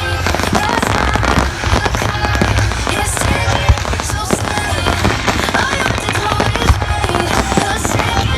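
Fireworks going off: a dense, continuous run of sharp bangs and crackles, over music with a heavy bass.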